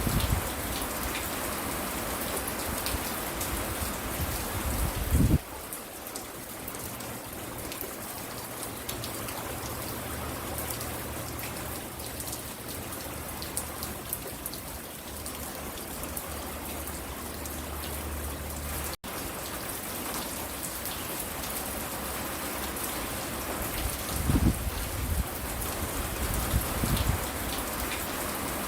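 Steady rain falling on a porch, an even hiss and patter. There is a short low thud about five seconds in, a couple more near the end, and a split-second dropout partway through.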